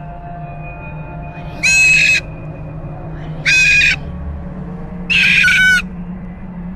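A pet parrot screaming: loud, harsh, flat-pitched squawks of about half a second each, repeated evenly, three in full and a fourth starting at the end.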